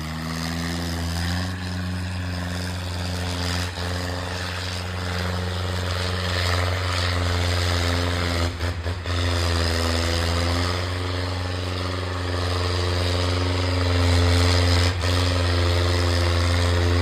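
Diesel tractor engine running at steady high revs, its note dipping briefly twice, about halfway through and near the end.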